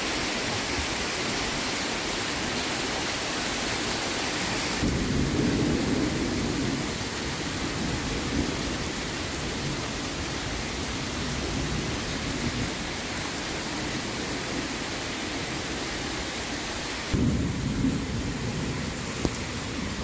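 Heavy rain pouring down in a steady hiss, with low rumbling that swells at about five seconds and again near the end.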